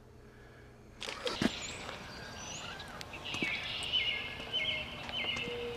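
Near-silent room tone, then from about a second in an outdoor background with small birds chirping repeatedly.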